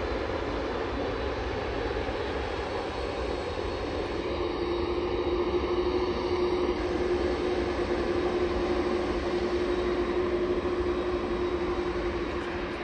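Jet airliner engines running as the plane passes: a steady noise with a held tone that comes in about four seconds in and fades near the end, swelling slightly in the middle.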